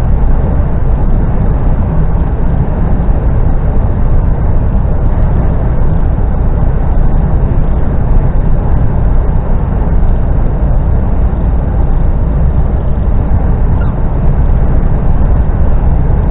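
Articulated lorry's diesel engine and road noise heard inside the cab while driving: a loud, steady, low rumble with no change in level.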